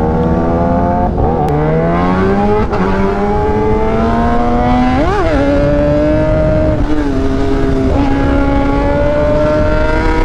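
Kawasaki Ninja ZX-10R's inline-four engine pulling away and running up through the gears: its pitch climbs slowly and drops back at each upshift. About halfway there is one quick sharp rise and fall in revs.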